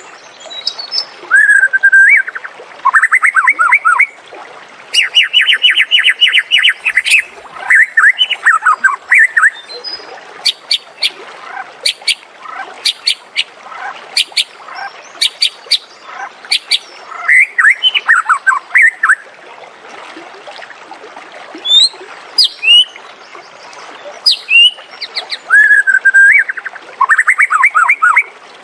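White-rumped shama singing a varied song: fast trills and rapidly repeated notes, broken by sharp high whistles, in phrases of a second or two with short pauses between.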